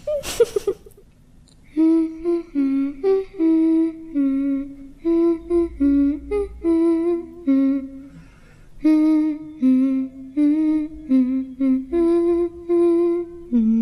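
A single voice humming a slow, simple tune in short held notes, in the style of a creepy horror sound effect.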